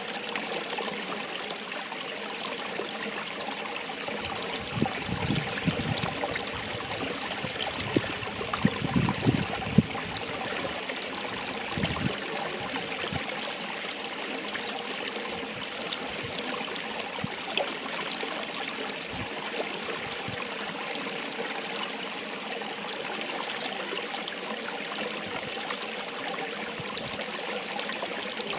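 Running water of a stream, flowing with a steady rushing and trickling. A few brief low thuds break in between about five and twelve seconds in.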